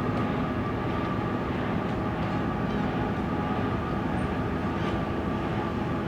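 Car ferry Okesa Maru's engines and machinery droning steadily as the ship leaves port, a constant low rumble with a steady hum, heard through the terminal's window glass.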